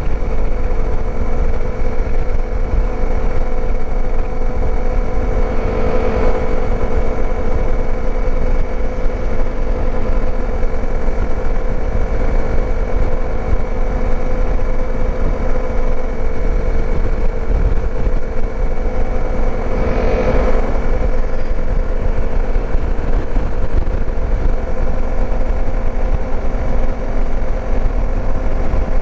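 Dirt bike engine running steadily while being ridden, its note holding at an even pitch.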